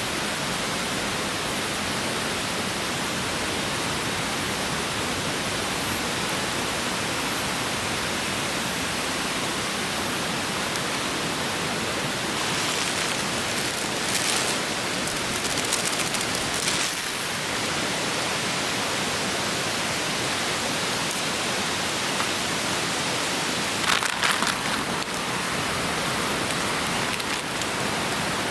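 Steady rushing of a clear stream, with a few short bursts of crackling clicks about halfway through and again near the end.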